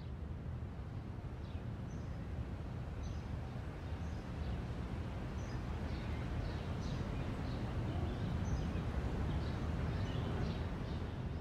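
Scattered short bird chirps over a steady low rumble of background noise, growing slightly louder toward the end.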